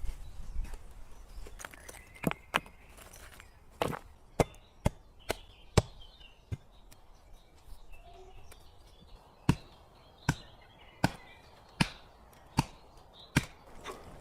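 A series of sharp chopping strikes, irregular at first, then settling into a steady beat of about one every three-quarters of a second from halfway through. Birds chirp faintly between them.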